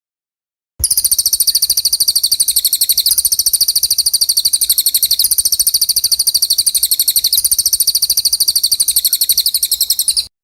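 A songbird's rapid, evenly pulsed high-pitched trill held for about nine seconds, starting about a second in and cutting off abruptly near the end. It is a looped 'tembakan' trill of the kind played to train competition songbirds.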